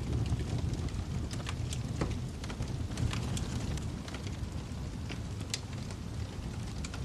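Wood fire crackling: irregular sharp pops and snaps, a few a second, over a steady low rumble of burning logs.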